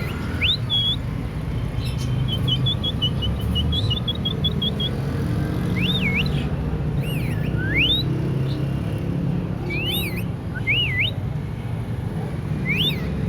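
Lovebird whistling: a run of short, quick whistled notes, then a string of separate rising and falling whistled glides, over a steady low rumble.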